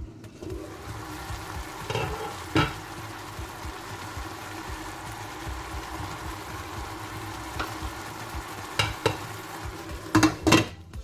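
Chicken wings sizzling in a stainless steel pot, frying in their own juices with no water added, the sizzle steady and open once the glass lid is off. A couple of clinks about two seconds in, and near the end several loud clanks as the glass lid goes back onto the pot.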